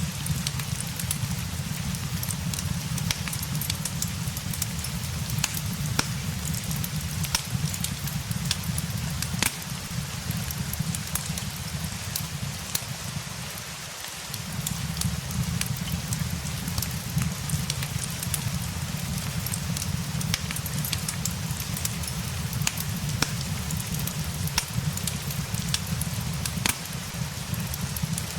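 Steady rain mixed with a crackling fireplace: an even hiss of rain over a low rumble, with frequent sharp, irregular crackles and pops from the fire. The low rumble briefly fades about halfway through, then returns.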